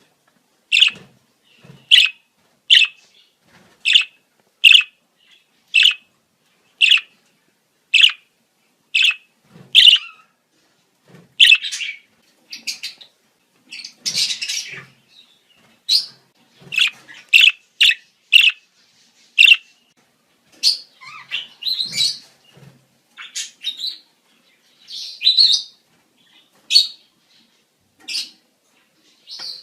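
Budgerigars giving breeding-season calls: short, sharp, high chirps about one a second, turning into more varied, irregular chattering about halfway through.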